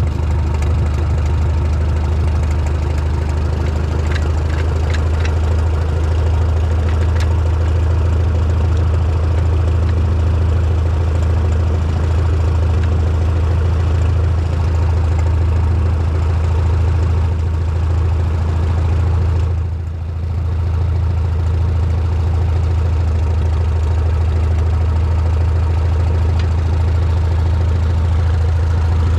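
Tractor engine running steadily at idle, loud and close, with a brief dip in level about twenty seconds in.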